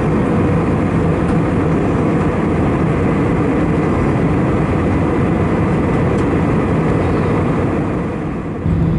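Steady in-flight cabin noise of an Airbus A319-111: the roar of airflow and its CFM56 turbofan engines at a constant level. Near the end the cabin PA system switches on with a low hum, just before an announcement.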